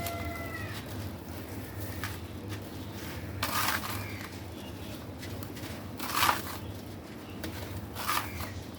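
Brittle black stone being crushed and crumbling, in three short crunching bursts spaced a few seconds apart. A thin, drawn-out cry with overtones, of a cat's meow kind, fades out in the first second, over a steady low hum.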